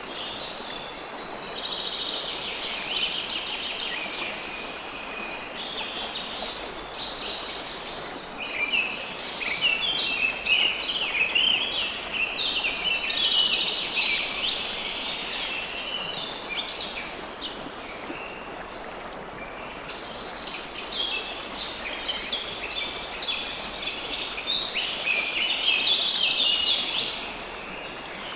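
A dense chorus of small birds chirping rapidly over the steady rush of river water. The chirping swells twice, in the middle and again near the end, then eases.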